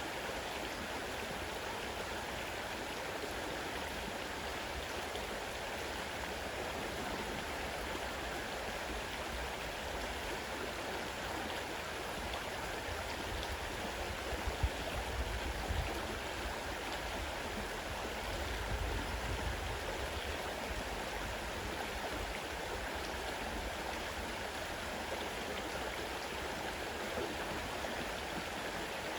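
Fast-running river water rushing steadily, with a few low bumps about halfway through.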